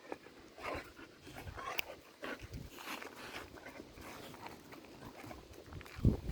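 Two dogs playing, panting and scuffling. There is a low thump near the end.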